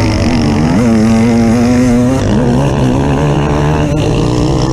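Off-road vehicle engine running under varying throttle: its pitch rises about a second in, holds, then drops and climbs again a little after two seconds.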